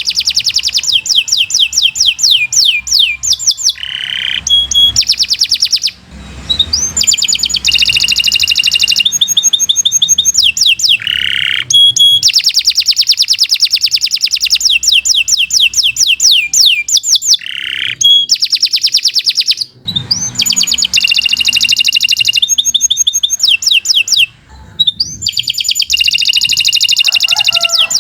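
Domestic canary singing a long, continuous song of fast trills and rapidly repeated high notes, broken only by brief pauses about six, twenty and twenty-four seconds in.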